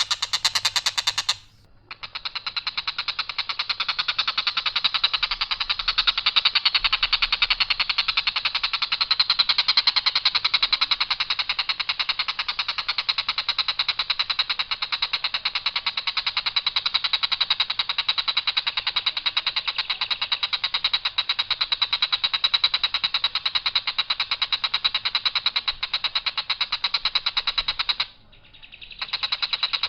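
Tengkek buto kingfisher calling: a long, rough, rapid rattle of evenly repeated notes held on one line without variation. It stops briefly near the start and again near the end before starting up once more.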